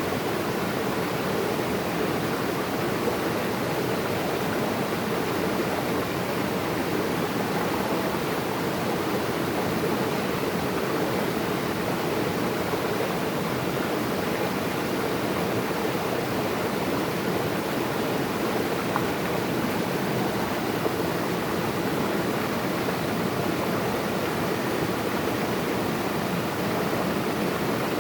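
Flowing water rushing steadily and evenly, with no breaks or separate splashes.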